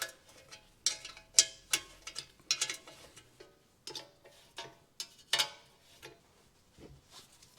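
Irregular metallic clicks and clinks, each with a short ring, as small metal hardware is handled and fitted during trailing-arm reassembly.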